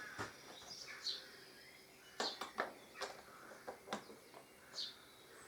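Small birds chirping in the background, with a few sharp light clicks and knocks between about two and four seconds in as the windscreen mounting clamps are handled.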